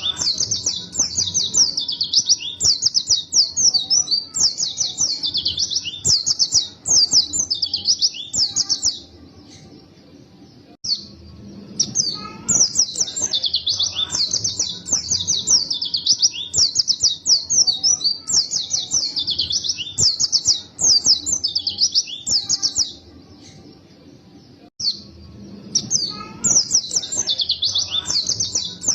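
White-eye (pleci) singing a long, rapid, high twittering song in continuous runs, falling quiet twice for two or three seconds.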